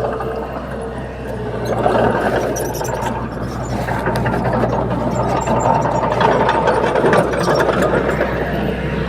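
Komatsu D21P bulldozer's diesel engine running steadily, growing louder about two seconds in.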